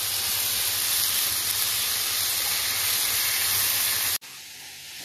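Food frying in a hot pan: a steady, loud sizzle that cuts off abruptly about four seconds in.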